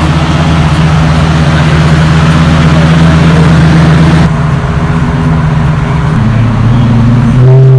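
Loud car engine running at steady, held revs. Its note changes about four seconds in and steps slightly higher a little after six seconds.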